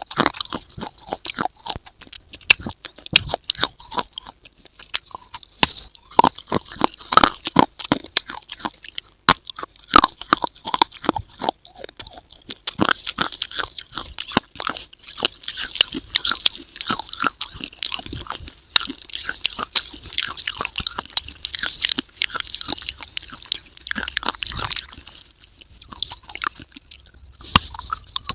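Crunchy chewing and biting: many irregular, sharp crunches in quick succession, over a steady high-pitched background hiss that fades briefly near the end.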